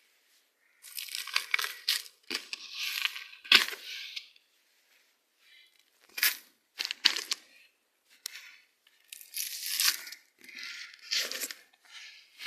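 Dry hay rustling and crackling as handfuls are stuffed into a box, in irregular bursts with short pauses between.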